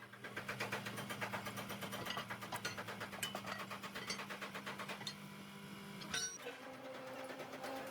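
A workshop machine running: a rapid, regular ticking over a steady hum. About six seconds in there is a sharp click, and the hum shifts to a higher pitch.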